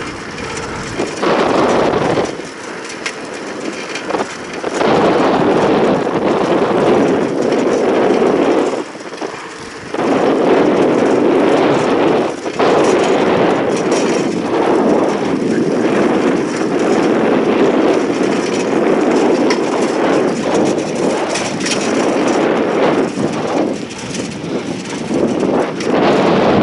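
Travel noise from a moving vehicle, a dense rushing of road and wind noise that surges and drops back several times.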